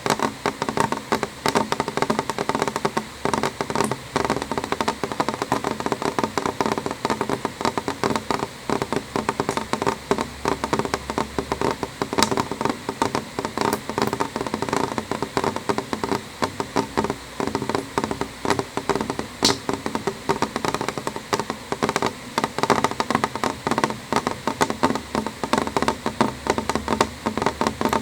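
Rain falling on a window pane: a dense, irregular tapping of drops on the glass, with a few sharper, louder clicks here and there.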